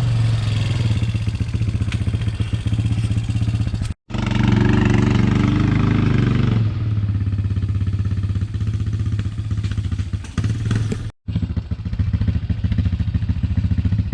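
Vehicle engine running steadily, revving up harder for a couple of seconds and then settling back. The sound cuts out abruptly twice, at about four seconds and about eleven seconds.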